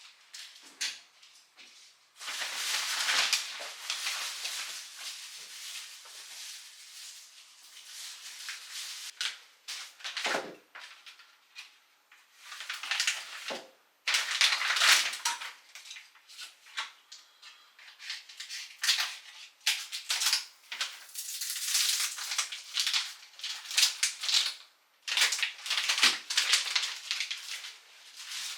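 Irregular rustling and crinkling of plastic bags and packaging as groceries are handled, with a few light knocks of items being set down.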